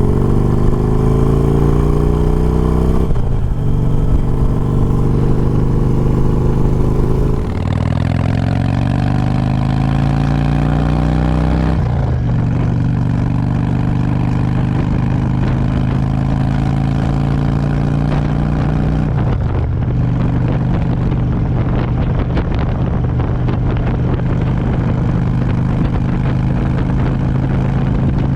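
Motorcycle engine accelerating up through the gears. The pitch climbs in each gear and drops back at each upshift, about three, seven, twelve and nineteen seconds in, then holds steady at cruising speed.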